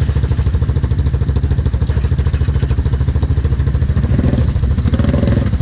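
ATV engine idling close by with a rapid, even pulse. About four seconds in, a second, higher engine note joins from another machine working.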